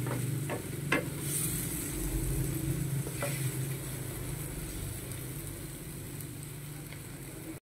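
Chopped tomato, onion and ginger sizzling as they sauté in a nonstick frying pan, stirred with a wooden spatula that knocks lightly against the pan three times in the first second and once about three seconds in. A low steady hum runs underneath.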